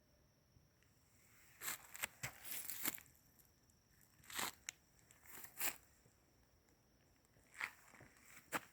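Footsteps crunching on dry fallen leaves of a forest hiking trail: irregular steps, some in quick clusters, with short pauses between them.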